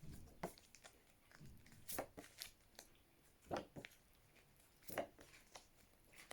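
Paper flashcards being handled and flipped by hand: a handful of brief, soft rustles and taps a second or so apart, with quiet in between.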